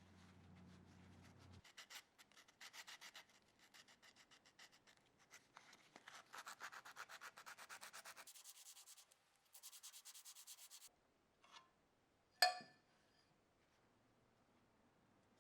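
Hand sanding with fast back-and-forth strokes, about seven a second, in several runs. Near the end comes a single sharp metallic clink that rings briefly.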